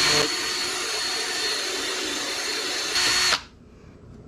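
Power drill running steadily with a high whine as it bores into the centre of a stripped steel bolt, drilling a pilot hole for a screw extractor; it stops abruptly a little over three seconds in.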